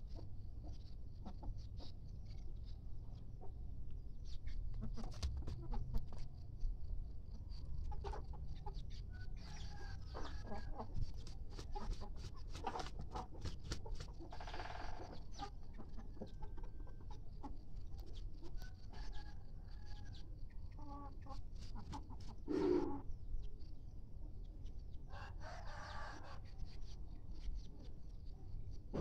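Free-range village chickens (ayam kampung) clucking and calling, with many short clucks and a few longer calls about halfway through and near the end.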